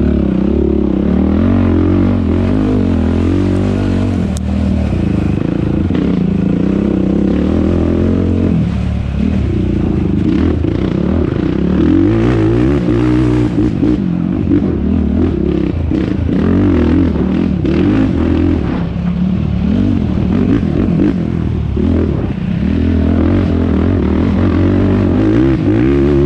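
Yamaha YFZ450R quad's single-cylinder four-stroke engine running hard, its revs rising and falling again and again as the throttle is worked, with occasional knocks and rattles.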